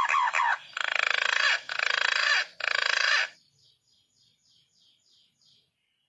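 Green pigeon (punai) calling: wandering whistled notes that end about half a second in, then three harsh rattling notes of about a second each, then faint short notes about twice a second fading away.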